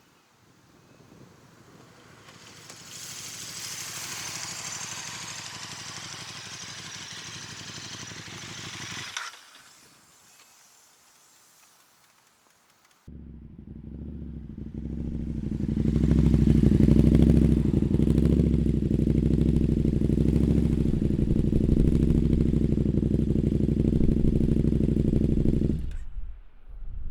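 KTM 1290 Super Duke R's 1301 cc V-twin idling through an Austin Racing V3 de-cat exhaust with no dB killer, a loud, steady, deep lope. It comes in suddenly about halfway through and cuts off near the end. Before it there is a rushing hiss that stops abruptly with a click, then a short lull.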